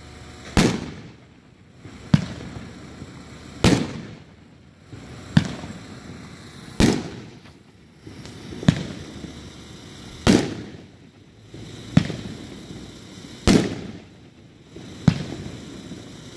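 A 9-shot consumer firework cake (Red Rhino's 'Protector') firing its shots: a steady series of sharp bangs about every one and a half seconds, each louder bang trailing off in a short rumbling echo.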